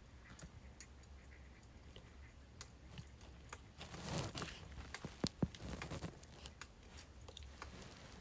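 Birch firewood burning, crackling with irregular small pops and a brief hiss, and two sharp louder pops about five seconds in.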